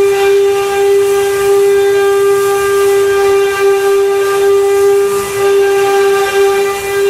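CNC wood-carving router's spindle running at speed with a steady whine and hiss.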